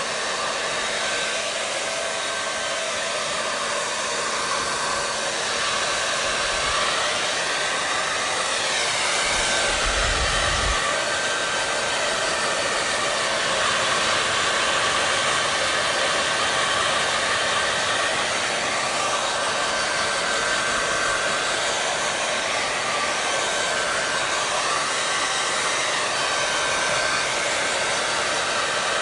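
Hair dryer running steadily: a constant rush of blown air with a faint steady whine from the motor.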